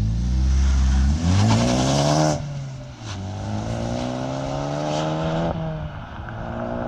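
1988 Pontiac Firebird Formula's 305 V8 through a Magnaflow exhaust, accelerating hard with the pitch climbing. It drops at a gear change about two and a half seconds in, climbs again in the next gear, and shifts again past five seconds.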